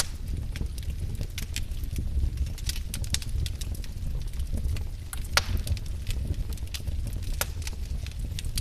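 Wood fire burning with a low steady rumble and frequent irregular crackles and pops, one louder pop about halfway through.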